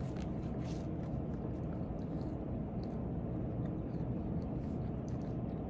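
French fries being pulled from paper bags and eaten: light paper rustling and faint, scattered crunchy clicks of chewing over a steady low room hum.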